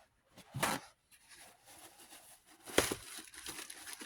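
Two short squirts from a Mr. Clean trigger spray bottle, about two seconds apart, followed by faint rubbing and crinkling.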